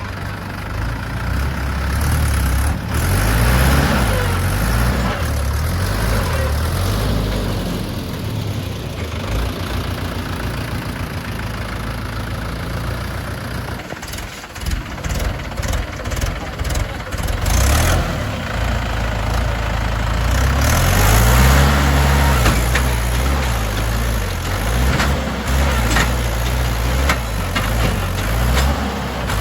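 Mahindra 475 DI tractor's diesel engine revving up and down under heavy load as it strains to pull a stuck, loaded trolley, with a brief drop about halfway through and a strong surge a few seconds later.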